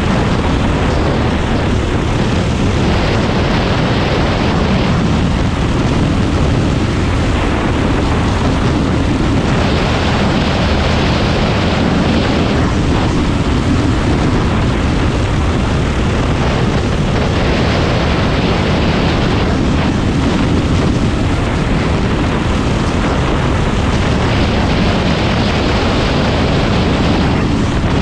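Predator 390 single-cylinder four-stroke engine running hard under race load, with wind rushing over the microphone. The sound swells and eases every several seconds as the throttle goes on and off around the track.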